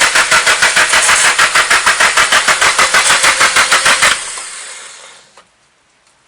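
Nissan SR20 inline-four engine cranking on the starter without catching, an even chug of about six pulses a second: the engine turns over but won't fire. The starter stops about four seconds in, and a hiss follows and fades away over about a second.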